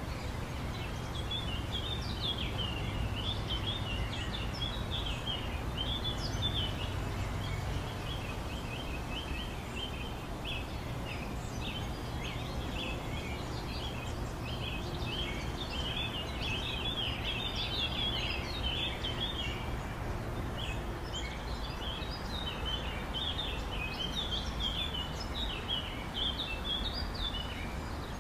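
Many small birds chirping and chattering, short calls overlapping almost without a break, over a steady low rumble.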